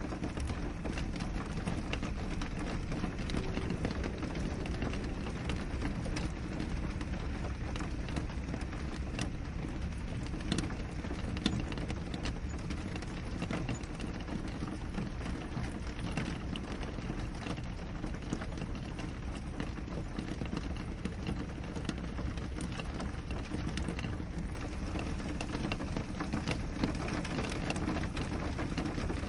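Steady rain falling on a window, many separate drops tapping on the glass over a continuous wash of rainfall.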